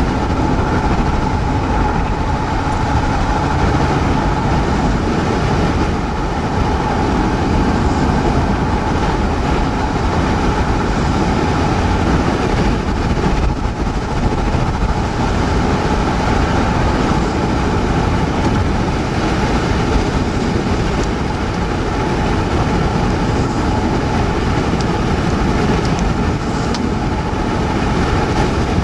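Steady roar of strong storm wind and road noise inside a moving car.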